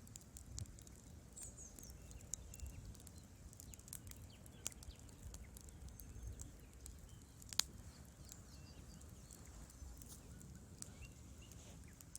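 Wood fire crackling quietly: many small, sharp pops at irregular intervals over a low rumble. One much louder pop comes about seven and a half seconds in.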